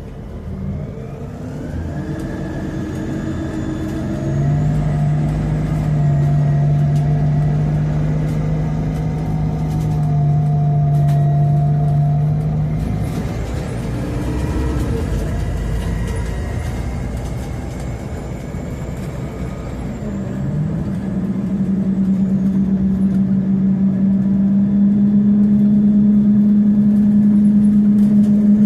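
Scania CN270UB city bus with its CNG engine, heard on board while under way: a steady engine and drivetrain note that climbs as the bus pulls away and holds while it drives, breaks off about thirteen seconds in, and rises again about twenty seconds in.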